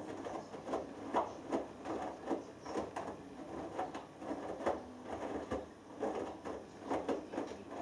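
Hoover Dynamic Next DXA610IW3 front-loading washing machine tumbling a delicates wash: wet laundry and water sloshing and splashing in the turning drum, in uneven thumps a few times a second.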